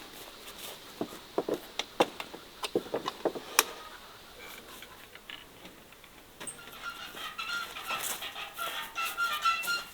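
A quick series of sharp clicks and knocks in the first few seconds, then hens clucking in short, repeated calls through the second half.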